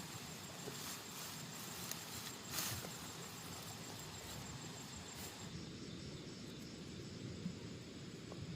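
Faint steady outdoor background noise with a few light clicks and knocks.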